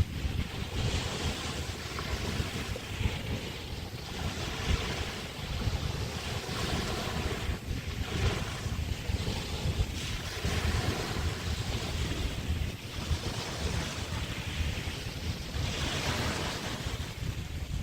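Small bay waves washing onto a sandy beach, a swell of surf hiss every few seconds, over a steady low rumble of wind buffeting the microphone.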